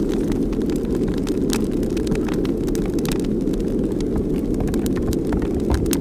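Strong wind buffeting the microphone: a steady low rumble, with scattered faint clicks and ticks over it.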